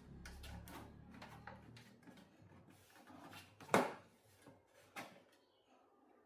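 Scattered clicks and knocks of parts being handled during a TV teardown, with one sharp knock a little past halfway and a lighter one about a second later. A low steady hum stops about two seconds in.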